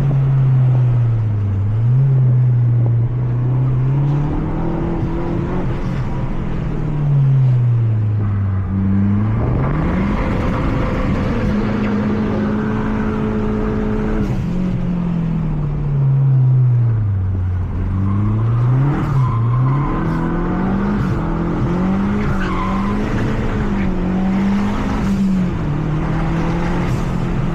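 Mazda 3 MPS's 2.3-litre turbocharged four-cylinder engine heard from inside the cabin while driven hard around a circuit: the revs climb under acceleration, hold, then drop away under braking, over and over through the corners, with tyre and road noise underneath and some tyre squeal.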